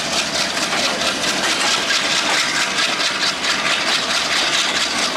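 Bangladesh Railway intercity passenger coaches rolling past at speed: a steady, loud rattle and rumble of wheels running over the track.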